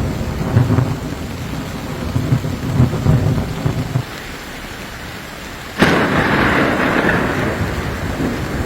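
Thunderstorm: rolling thunder rumbles over steady rain, then about two-thirds of the way through a sudden sharp thunderclap, the loudest moment, followed by heavy rain hiss.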